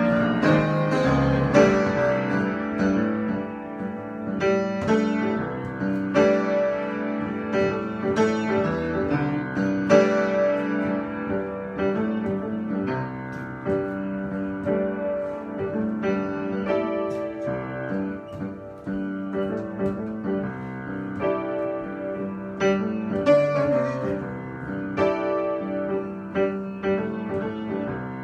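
Piano improvisation: chords and a melody line played freely, with notes struck at an unhurried, uneven pace.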